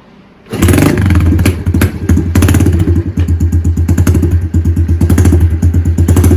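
A Honda CRF110's single-cylinder four-stroke engine, bored out to 132cc and breathing through a Piranha exhaust, fires on a cold start about half a second in and settles into a loud, fast-pulsing idle. It runs a little unevenly for a moment early on before steadying.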